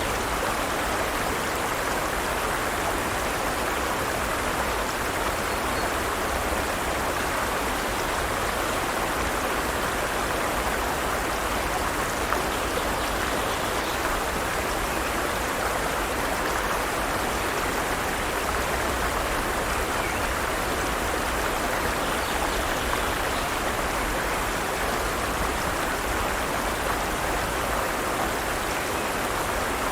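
Forest stream running over rocks, a steady even rush of flowing water.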